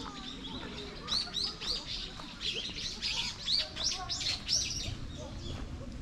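A small bird calling in a quick series of short, high chirps, about three a second, from about a second in until near the end, over steady low background noise.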